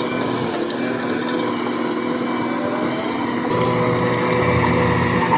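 Heavy diesel engine of earthmoving machinery running steadily, pulling harder and louder about three and a half seconds in.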